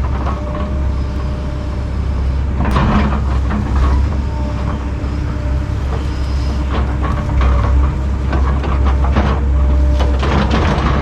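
Kobelco 210 excavator's diesel engine running steadily under load with a faint hydraulic whine, while brush and roots crack and crunch several times as the bucket and thumb rip them out of the ground.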